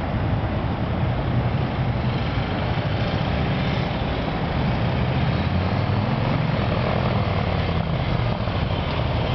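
Kawasaki Vulcan 1500's V-twin engine running as the motorcycle is ridden, a steady low drone that gets a little louder from about halfway.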